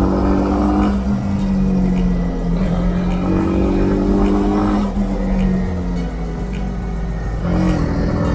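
Honda CB300R's single-cylinder engine running steadily at riding speed, with its pitch shifting slightly a few times as the throttle changes.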